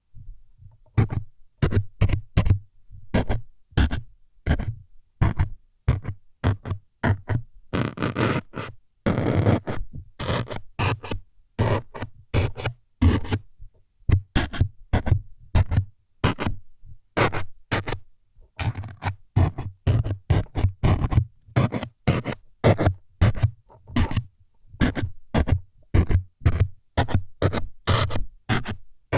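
ASMR needle-stabbing trigger: many short jabbing scratches and scrapes, about two a second, with a longer scrape about a third of the way in.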